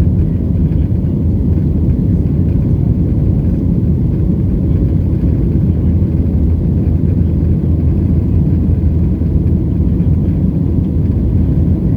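Cabin noise of a Boeing 737-700 in flight: the steady low rumble of its CFM56-7B engines and airflow, with a faint steady tone above it.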